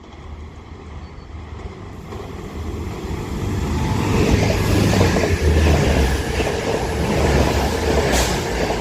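Two coupled Northern Class 195 diesel multiple units passing through a station without stopping. The rumble of the engines and wheels builds over the first few seconds, is loudest in the second half, then begins to fade near the end.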